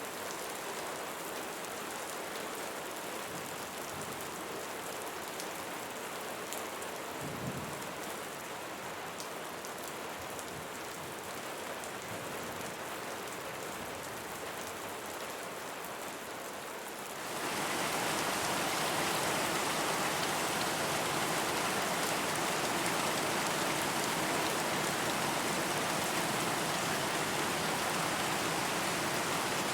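Steady rain falling, a dense even hiss of drops, which suddenly grows louder and heavier about two-thirds of the way through.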